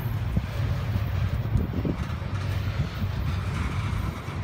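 CSX coal hopper cars rolling past, a steady low rumble of steel wheels on rail with a few short knocks.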